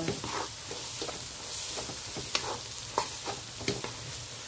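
Crumbled egg and chilli sambal frying in oil in a non-stick wok, sizzling steadily, with a wooden spatula scraping across the pan as it is stirred, a handful of sharper scrapes standing out.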